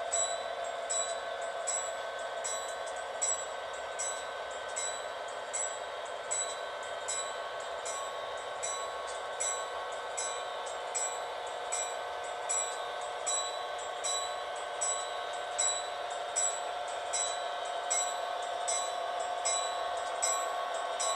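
Railroad grade-crossing bell ringing in a steady rhythm, about one to two strikes a second, over the steady sound of a train.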